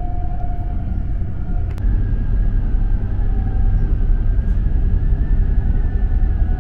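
Cabin noise of a Trenitalia double-decker regional train running at about 116 km/h: a steady low rumble of wheels on rails with a faint steady whine. A sharp click comes a little under two seconds in, after which the rumble is slightly louder.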